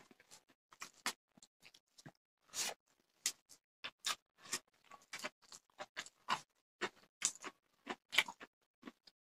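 Close-up eating sounds: a mouthful of rice and fish curry being chewed, wet and smacking, in short irregular clicks several times a second.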